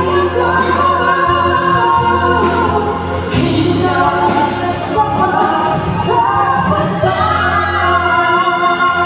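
A sung ballad with instrumental backing: voices holding long, gliding notes over a steady bass line.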